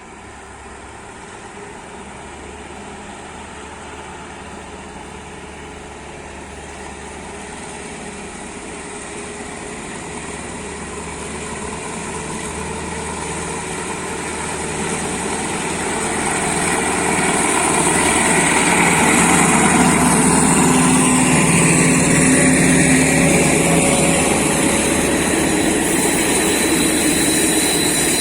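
Alsthom diesel locomotive approaching, its engine growing steadily louder for about eighteen seconds and then staying loud as it draws close.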